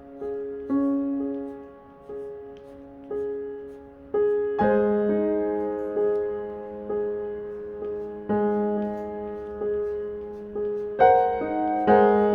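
Slow solo piano background music: single notes and chords struck one after another, each fading away, with fuller chords coming in about four seconds in and again near the end.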